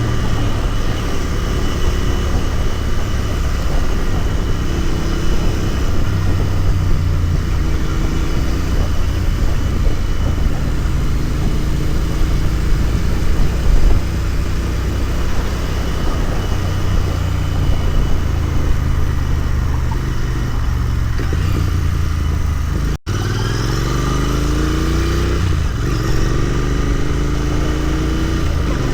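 Royal Enfield Continental GT 650's 648 cc parallel-twin engine running at a steady cruise under wind rush, then, after a momentary break in the sound about 23 seconds in, accelerating with several rising pitch sweeps as it pulls up through the gears.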